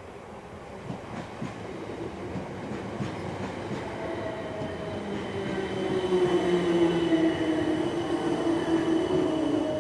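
Electric multiple-unit passenger train approaching, growing steadily louder over a rumbling wheel noise with steady whining tones that peak about seven seconds in and then sink slightly in pitch.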